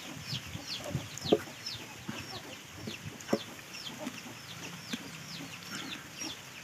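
Small birds chirping over and over, short high notes that slide downward, about three a second. A couple of sharp knocks from the wooden handle pieces being handled, about one and three seconds in.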